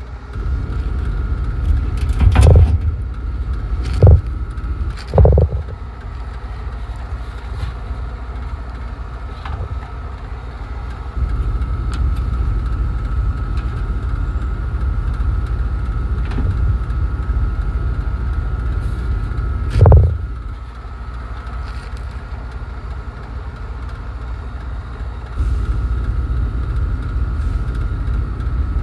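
Steady low machine rumble with a thin steady whine above it, stepping louder about a third of the way in and again near the end, broken by four sharp metallic knocks, the last and loudest about two-thirds of the way in.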